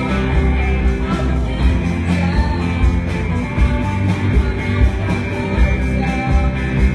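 Rock band playing a song, with singing, guitar and drums keeping a steady beat.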